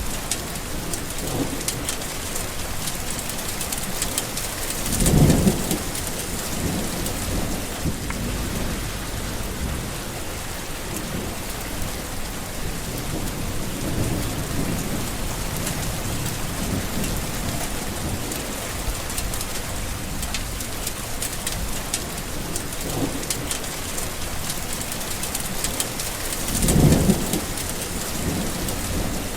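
Steady heavy rain falling, with rolls of thunder: two loud low rumbles, about five seconds in and near the end, and fainter ones in between.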